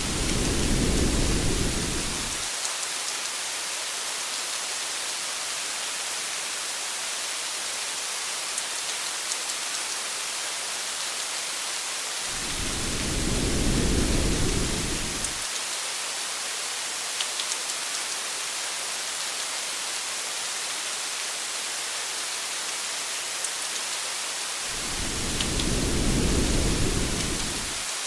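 Steady rain, a continuous hiss with faint scattered drop ticks. A low rumble of thunder swells and fades three times, evenly about every twelve seconds, each lasting about three seconds.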